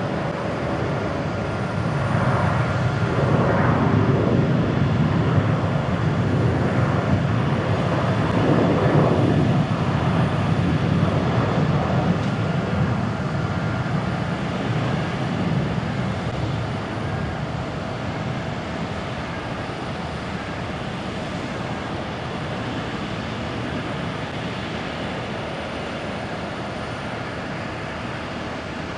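Boeing 737-800 airliner's CFM56-7B jet engines at takeoff thrust. The deep rumble swells about two seconds in, is loudest for the next ten seconds or so, then fades gradually.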